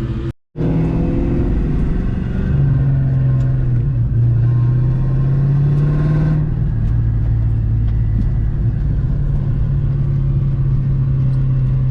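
1996 Ford Mustang GT's 4.6-litre two-valve V8 running at low revs while the car is driven gently, its note shifting slightly a few times. The sound cuts out completely for a moment about half a second in.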